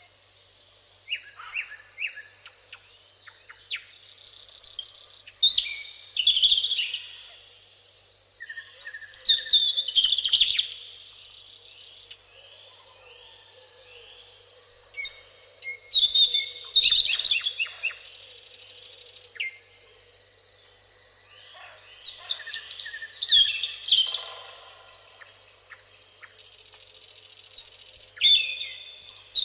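Several songbirds singing and chirping over one another in short, varied phrases and trills, with a buzzy high phrase recurring every several seconds. A steady thin high tone runs underneath.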